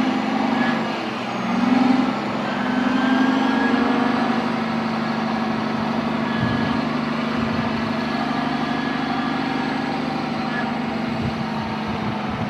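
Heavy machine engine running steadily, with a brief rise in level about two seconds in.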